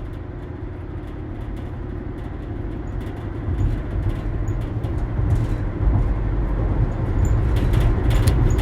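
Car road and engine noise heard from inside a moving car: a steady low rumble that grows gradually louder.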